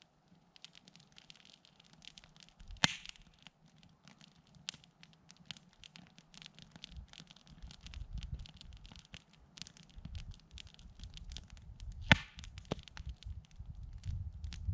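Campfire crackling, with steady small snaps of burning wood and two loud sharp pops, one about three seconds in and one near the end.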